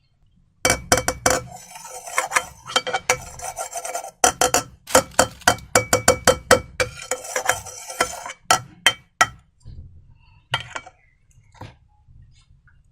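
Slime-making handling sounds: a dense run of crackling clicks and clinks against a container, as if a utensil is being worked through slime in a bowl. It starts about a second in, stops about nine seconds in, and is followed by a few stray clicks.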